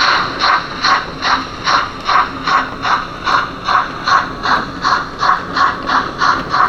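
Model train running on the layout, making a steady rhythm of short noisy beats, about two and a half a second.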